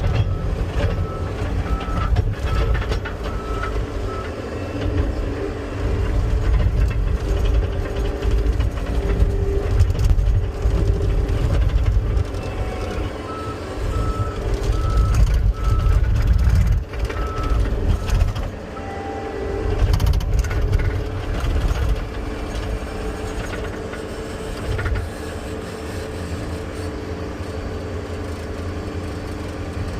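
Diesel engine of a compact track loader working under varying load while loading a dump truck. A backup alarm beeps at about two beeps a second in two spells, at the start and again about halfway through.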